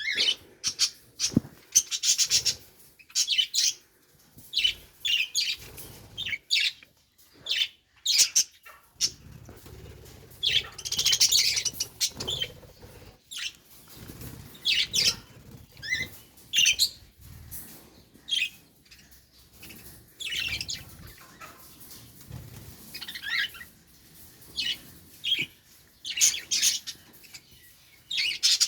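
Pet budgerigars chirping and chattering: many short, high calls in quick, irregular succession.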